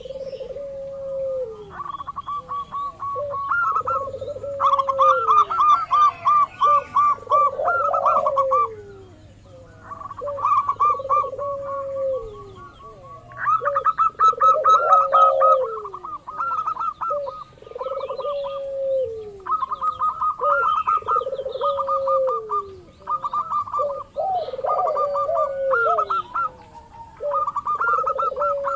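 Zebra doves (perkutut) calling: bouts of rapid, staccato trilled coo notes lasting a few seconds each. A lower, downward-sliding coo repeats about every two seconds beneath them.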